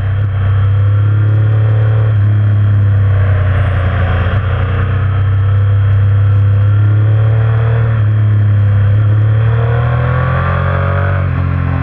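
Motorcycle engine running under way, its pitch rising as it accelerates and dropping back at gear changes, about two seconds in, near eight seconds and again near the end, with a hiss of wind over it.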